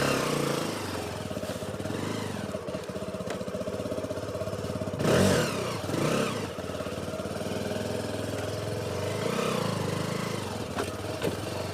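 Motorcycle engine running steadily under way, with a brief louder swell about five seconds in.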